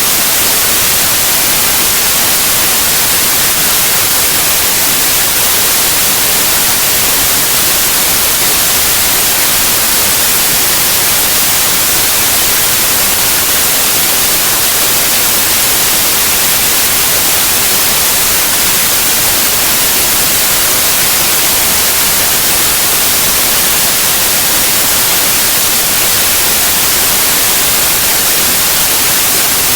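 Steady, loud white noise: an even, unchanging hiss, brightest in the high end.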